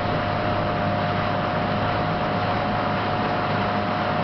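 Aquasport motorboat's engine running steadily under way, a constant hum over the rush of water and wind.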